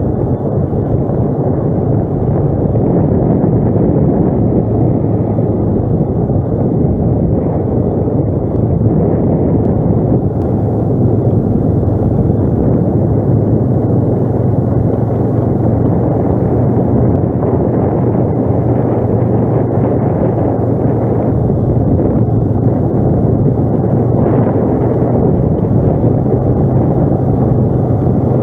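ATV engine running at a steady note while being ridden, with rough ride noise over it.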